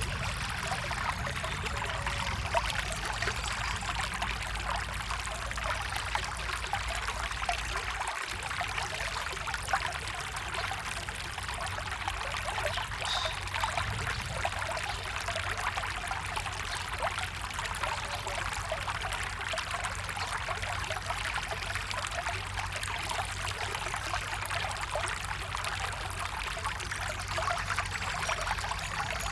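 A small forest stream trickling and splashing steadily.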